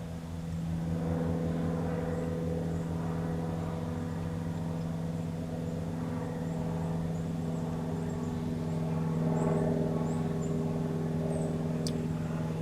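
1991 Ford Explorer's 4.0-litre V6 engine idling steadily, getting a little louder about half a second in. The owner has wondered whether it runs on only five cylinders, but thinks it seems to be running on all six.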